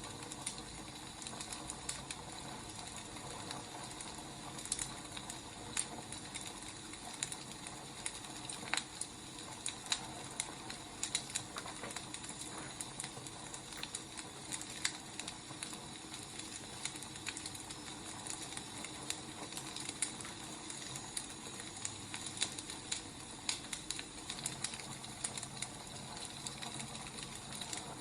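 Wood fire crackling: irregular sharp pops and crackles over a steady soft hiss.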